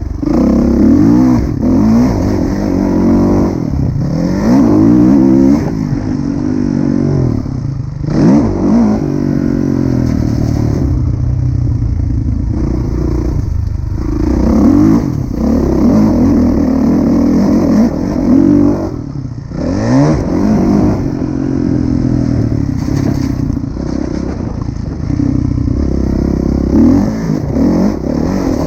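Kawasaki KX450F four-stroke single-cylinder motocross engine under hard riding, revving up and down over and over as the throttle is opened and closed, with short drops off the throttle about a third, a half and two thirds of the way through.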